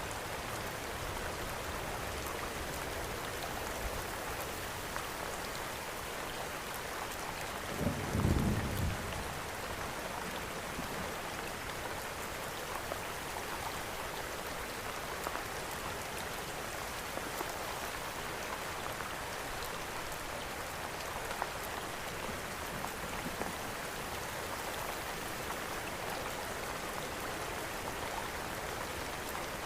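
Steady rain mixed with a wood fire burning, with a few sharp crackles scattered through. A brief low rumble about eight seconds in is the loudest sound.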